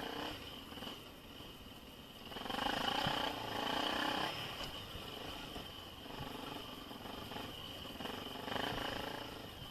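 Dirt bike engine revving in uneven surges, loudest about two to four seconds in and again near the end, running lower in between, with a steady high-pitched drone underneath.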